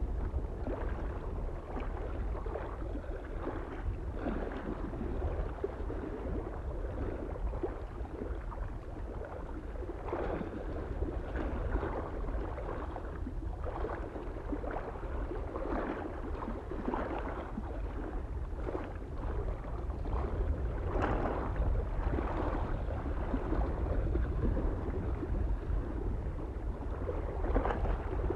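Small waves lapping irregularly against a lake shore, a splash every second or so, over a soft, steady low wind rumble.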